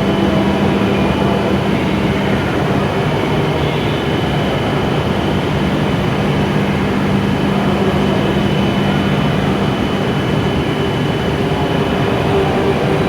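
E7 series Shinkansen train standing at the platform, its onboard equipment giving a steady low hum with a faint constant high whine over a dense noise that stays level throughout.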